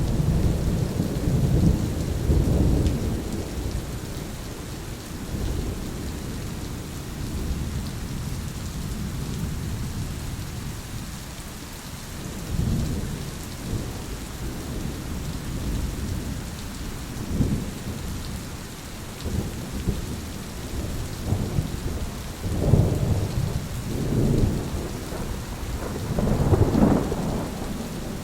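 Thunderstorm: steady rain falling, with low rolling rumbles of thunder that swell and fade, heaviest at the start and again in several rolls near the end.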